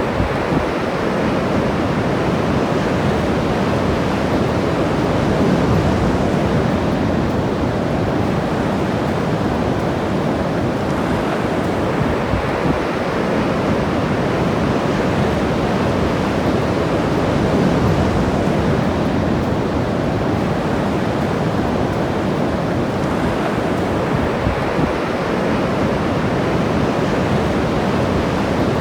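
Ocean surf washing steadily on the shore, swelling and easing slowly every ten seconds or so, with wind on the microphone.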